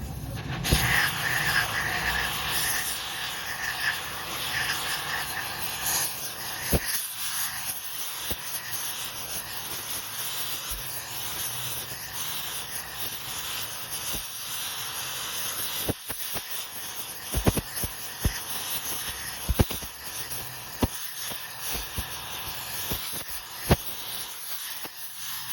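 Steady hissing, rasping metalworking noise from work on a steel socket, with sharp knocks now and then in the second half.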